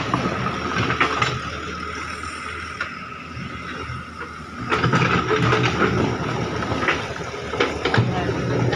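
Engine of a farm trolley running, with repeated knocks and rattles from the vehicle; it grows louder about five seconds in.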